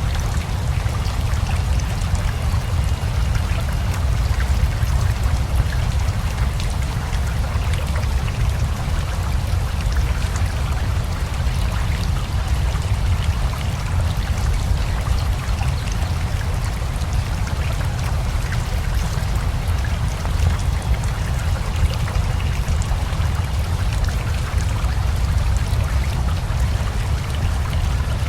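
Steady rain falling together with a flowing river, a continuous deep rush of water under fine scattered raindrop ticks.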